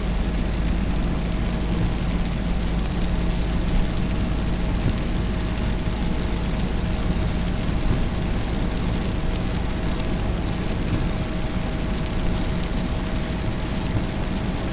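A vehicle engine running steadily at an even pace, with a constant low rumble and a steady hum.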